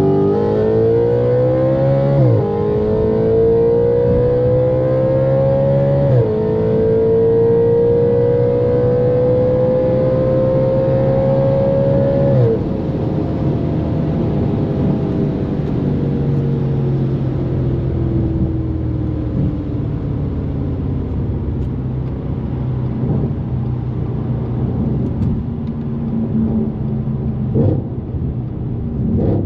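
Straight-piped Audi RS5's naturally aspirated 4.2-litre V8 under full-throttle acceleration, the note rising through the revs with two upshifts about two and six seconds in. After a long, slower pull in a higher gear it lifts off about twelve seconds in, the note falling away and settling into a steady cruise, with two short blips near the end.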